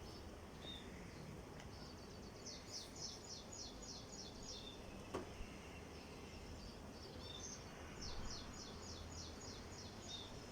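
A bird singing in two runs of quick, evenly repeated high chirps, about four or five a second, each run lasting about two seconds, over a steady background hiss.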